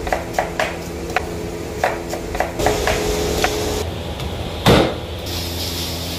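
Meat being chopped with a knife on a wooden board: a string of sharp, irregular chops, with one heavier strike near the end.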